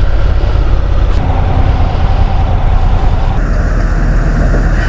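Honda NC750 DCT motorcycle on the move, heard through a helmet-mounted microphone: a steady low rumble of engine and wind.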